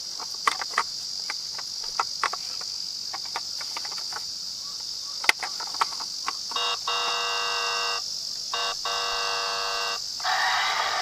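Die-cast toy minicars clicking and clacking as they are handled, over a steady high-pitched insect-like hum. About six and a half seconds in come two steady buzzing electronic tones of about a second and a half each, and near the end a rolling rattle begins.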